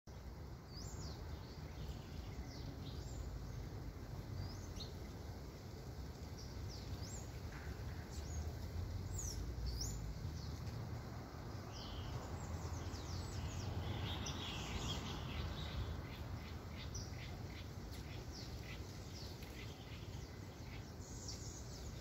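Several wild birds chirping and calling in short, high, often falling notes, with a run of evenly repeated notes past the middle, over a steady low background rumble.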